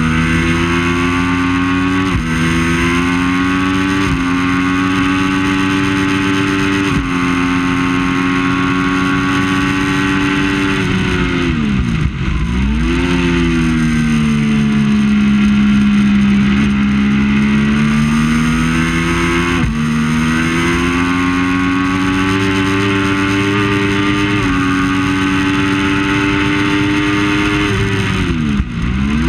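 Triumph Daytona 675's 675 cc inline-three engine under race load. It runs up through the gears in quick upshifts, drops sharply in pitch for braking and downshifts about twelve seconds in, and holds a steady pitch through a long corner. It then climbs through the gears again before falling sharply near the end.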